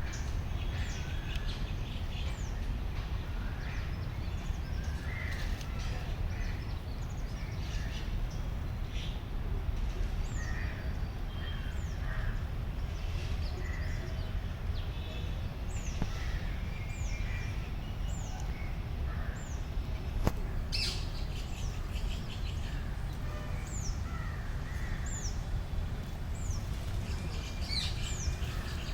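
Green parrots calling: many short, high, downward-sliding calls, some in quick runs, over a steady low rumble.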